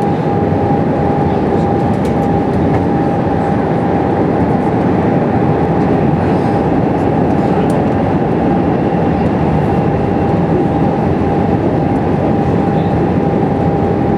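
Airbus A320's cabin in flight: a steady rumble of rushing air and its IAE V2500 turbofan engines, with a steady whine held at one pitch.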